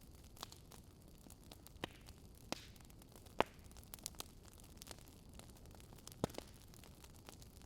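Burning wood logs crackling: a handful of sharp, irregular pops over a soft steady hiss, the loudest pop about three and a half seconds in.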